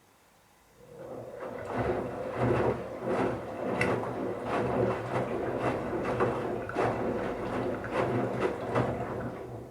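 Bauknecht Super Eco 7615 washing machine's inverter motor turning the drum in a wash phase, a steady motor hum with irregular thuds and swishes of wet towels tumbling. It starts about a second in and dies away near the end.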